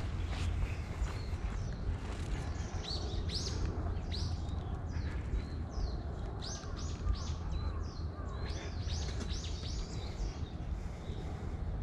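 Small birds chirping: many short, high, downward-sweeping calls in quick clusters, starting a few seconds in, over a steady low rumble.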